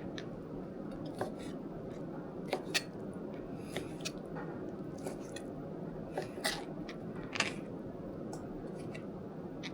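Scattered light clicks and taps at an irregular pace over a steady low hum, the sharpest about two and a half seconds in and again around six and a half and seven and a half seconds.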